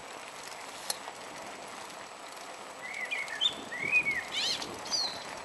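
A small bird calls outdoors: a few short arching chirps and a quick run of rapid notes about halfway through, over a steady background hiss. There is a single sharp click about a second in.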